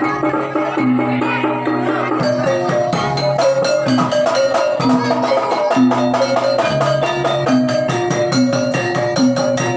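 Javanese gamelan ensemble playing jaranan accompaniment: struck bronze metallophones ringing a repeating melodic pattern over a steady beat of drum and percussion strokes.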